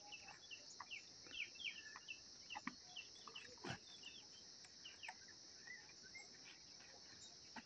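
Faint steady chorus of crickets or other insects, with scattered short, high, falling chirps and a few light clicks over it.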